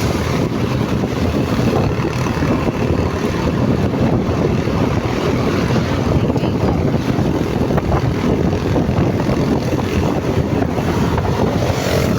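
Motorcycle running, heard with wind rushing over the microphone.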